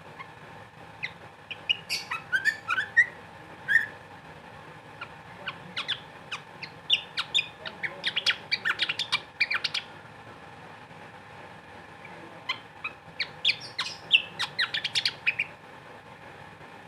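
Sikatan (flycatcher) singing in three bouts of rapid chirps and short rising whistles, with pauses between them. A faint steady hum sits underneath.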